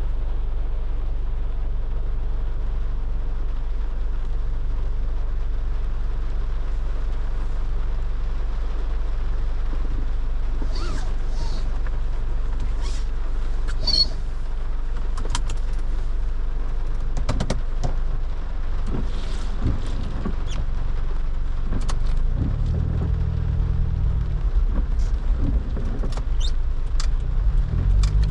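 Car driving in the rain: a steady low rumble of engine and road, with scattered sharp ticks from about ten seconds in. The low engine note grows stronger in the last few seconds.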